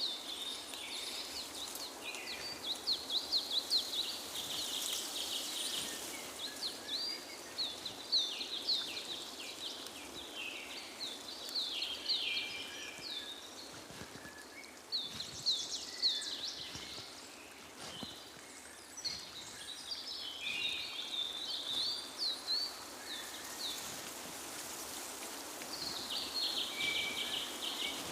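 Several songbirds singing at once: a dense chorus of quick high chirps and short trills that overlap without pause, over a faint steady hiss.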